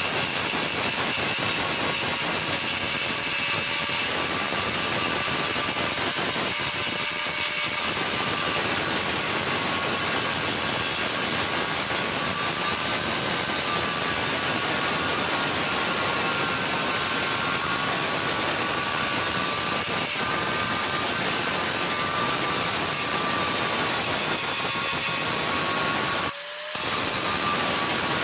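Stick (shielded metal arc) welding with an AWS E6013 electrode on thin steel pipe: the arc gives a steady crackling sizzle. It cuts out for about half a second near the end, then resumes.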